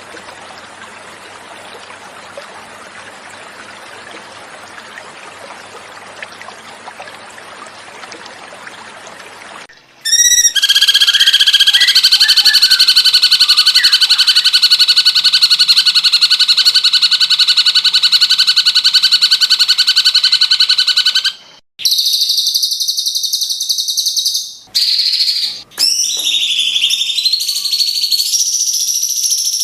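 Flowing water for about ten seconds, then a cucak cungkok's song starts abruptly. It begins with a loud, very rapid, steady trill held for about eleven seconds, followed by shorter high-pitched calls with brief gaps. This is recorded birdsong used as master material for training white-rumped shamas.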